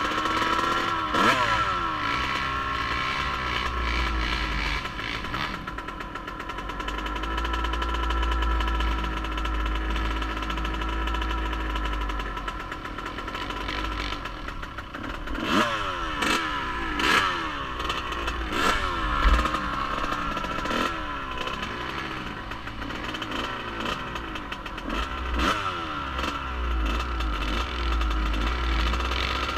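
Off-road vehicle engine being ridden hard, revving up and down over and over, with quick bursts of revs in the middle and again near the end. Wind buffeting rumbles on the microphone through much of it.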